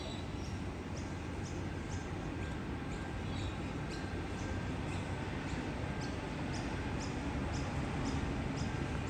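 Steady low rumble of a train at the station, with a short high chirp repeating about twice a second.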